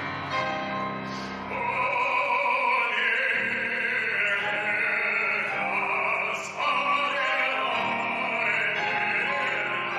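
A song: a voice singing long held notes over instrumental accompaniment, growing louder about a second and a half in, with a brief break near the middle.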